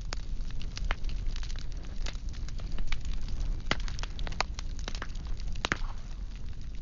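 Burning firewood crackling: irregular sharp pops and snaps, several a second, over the steady low rumble of the fire.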